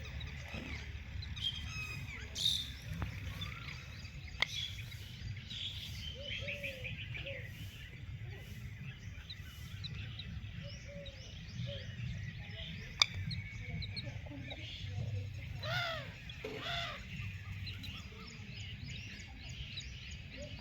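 Several birds chirping and twittering in short, overlapping calls, with a louder run of calls about sixteen seconds in, over a low steady rumble. Two sharp clicks, about four and thirteen seconds in.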